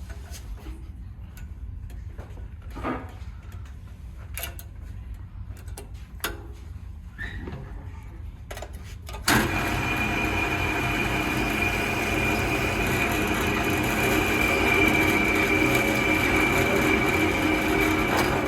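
A few light clicks and knocks of handling, then about halfway in a drill press starts suddenly and runs steadily with a high whine, set to drill through the wooden bird cutout.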